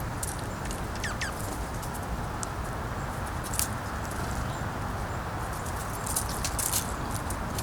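Steady wind rushing on the microphone, with scattered sharp clicks and taps of squirrels and birds cracking and pecking at seeds, several close together near the end. A short falling chirp about a second in.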